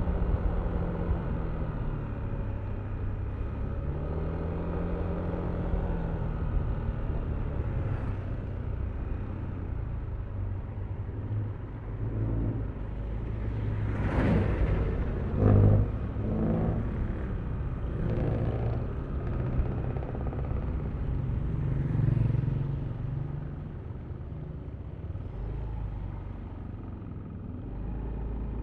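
Yamaha Aerox V3 scooter's 155 cc single-cylinder engine running on the move, its pitch rising and falling as the throttle opens and closes. A louder swell of noise comes about halfway through.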